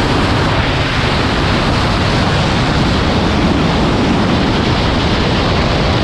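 Wind buffeting the microphone: a loud, steady rushing noise with no clear engine note.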